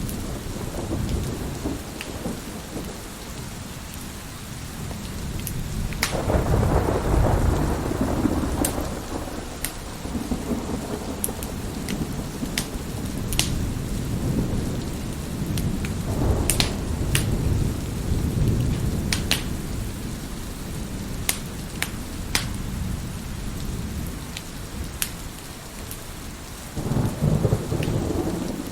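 Heavy rain with rolling thunder over a crackling wood fire: a steady patter of rain, sharp scattered pops from the fire, and low thunder rumbles swelling about six seconds in, again around sixteen seconds, and a loud peal near the end.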